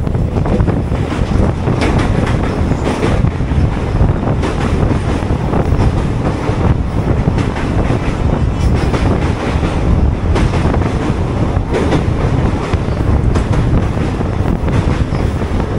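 Train running on the track, wheels clattering over rail joints in a steady stream of irregular clicks over a continuous rumble.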